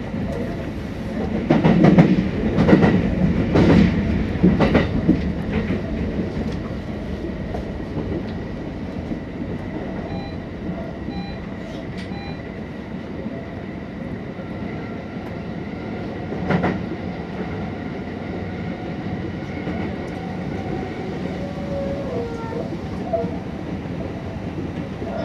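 Electric commuter train of the Kintetsu Nara Line running at speed, heard from inside the leading car: a steady running rumble with a quick run of wheel clacks over track joints in the first few seconds and one more loud clack about two-thirds of the way through.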